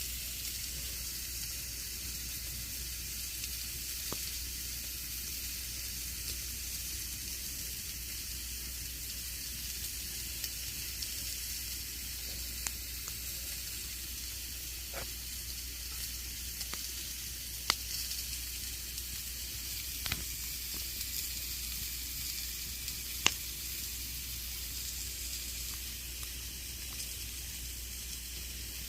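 Campfire burning with a steady soft hiss and scattered sharp crackling pops, a few of them louder than the rest.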